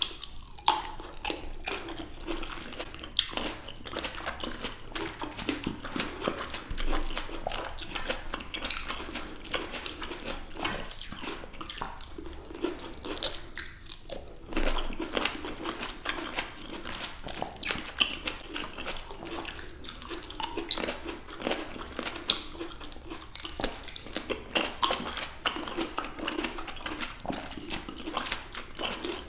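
Close-miked biting and chewing of juicy fresh red grapes by two people: a steady run of small wet clicks, crunches and squelches with no pauses.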